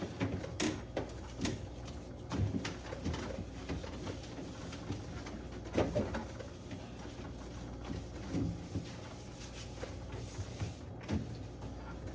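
Fridge shelves and drawers being wiped down with a cloth: scattered light knocks and clicks of plastic and glass being handled, with a few short squeaks of the cloth on the surfaces.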